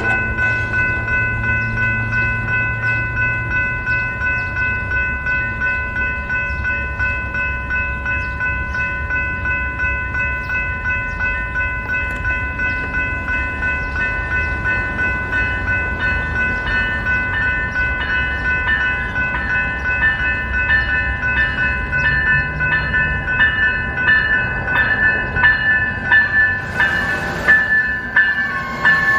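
Passenger train passing on the tracks: a steady low rumble with several steady high ringing tones held over it and regular faint clicks, then a short rush of noise near the end.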